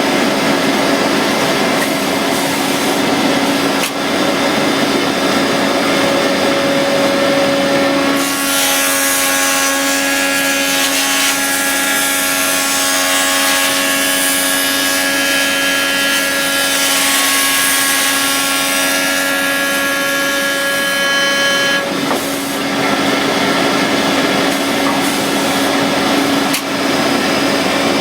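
Automatic machine for wooden hammer handles running with a steady motor hum. After about eight seconds a louder, hissing cutting sound of wood being shaped joins in for about fourteen seconds, then the machine goes back to its plain hum.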